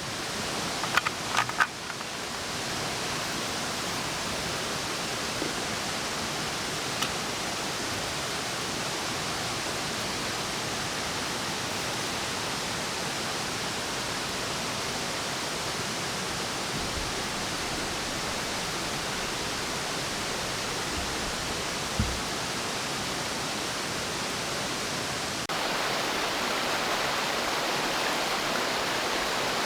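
Steady, even rushing noise with a few short clicks about a second in, one soft thump later, and a slight rise in level near the end.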